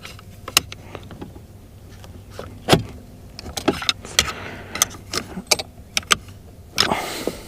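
Irregular clicks, knocks and short scrapes of hard plastic and metal parts being worked by hand and tool on a Mercury boat remote control whose handle is stuck and won't come off.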